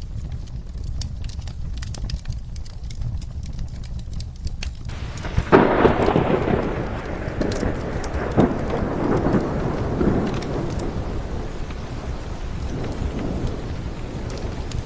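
Steady rain with scattered crackling clicks from a wood fire; about five seconds in a thunderclap breaks out and rumbles away over the next several seconds.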